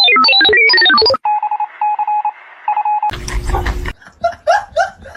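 A rapid run of electronic beeps jumping in pitch, like phone keypad tones, followed by a steady beep that pulses on and off three times. Then comes a short loud burst of noise and a few short meows near the end.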